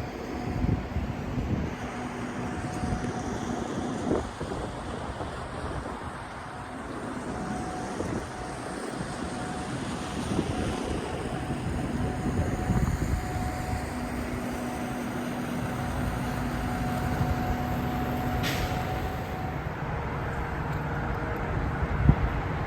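Vehicle on the move: steady road and engine noise with a low hum that fades in and out.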